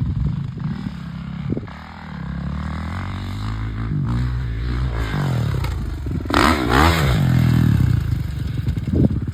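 Dirt bike engine revving, its pitch climbing over several seconds, loudest briefly about six and a half seconds in, then running on steadily.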